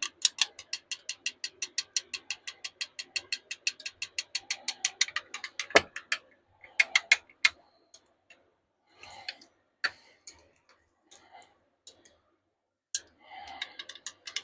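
Plastisol being stirred in a mixing cup with a utensil: a rapid, even clicking for about five seconds, several clicks a second, then one louder knock and a few scattered clicks and rustles.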